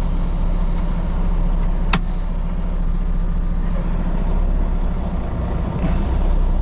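Semi-truck diesel engine idling steadily, with a single sharp click about two seconds in.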